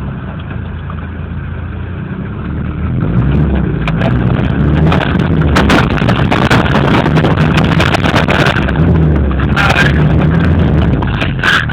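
A motor vehicle's engine revving hard under load in a sand climb, getting louder about three seconds in, with many short crackles over it.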